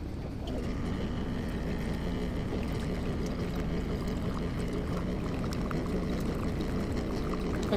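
Steady rush of running water with a low hum underneath, starting about half a second in.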